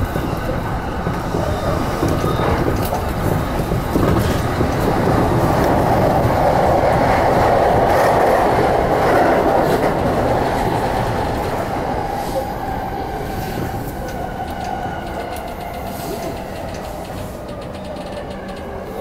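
JR Yamanote Line electric train running on the rails, heard from inside the train: a steady rumble of wheels and track that swells to its loudest about halfway through, then gradually eases off.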